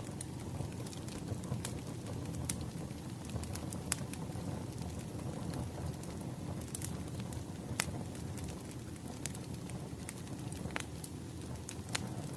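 Crackling wood fire: a steady low rumble of burning with irregular sharp pops and snaps.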